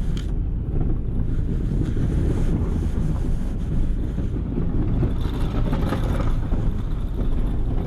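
Engine of a snow-plow vehicle running steadily while it plows, a low rumble with some wind noise on the microphone.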